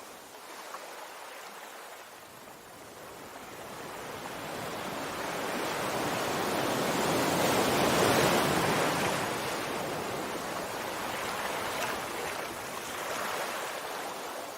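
Sea waves on a shore: the wash swells steadily to a loud peak about eight seconds in, then recedes into a softer, lingering wash.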